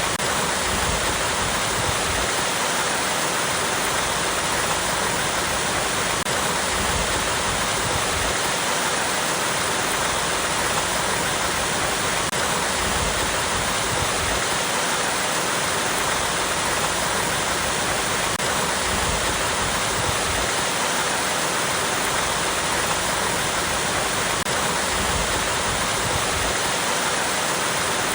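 Small waterfall pouring over rocks: a steady, even rush of falling water that does not change.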